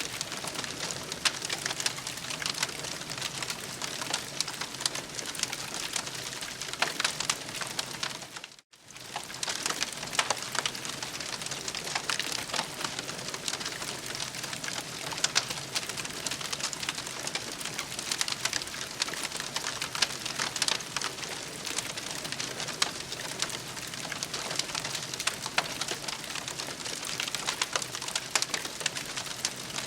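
Campfire crackling steadily with many small pops and snaps, cutting out briefly about nine seconds in.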